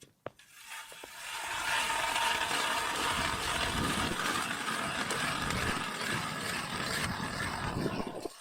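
Hand ice auger drilling a hole through river ice: a steady rough grinding scrape that builds up about a second in, runs evenly, and stops abruptly near the end as the blades break through or are lifted out.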